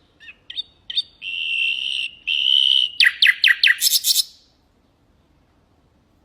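Nightingale singing one song phrase: a few short opening notes, two long even whistles, then a fast run of about seven downward-sweeping notes that stops about four and a half seconds in.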